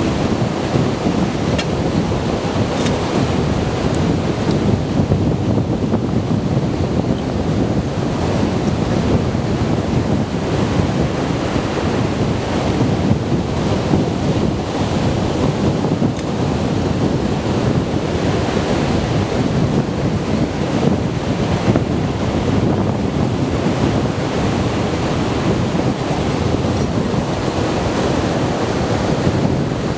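Strong wind buffeting the microphone over surf breaking on a beach, a constant dense noise with no let-up.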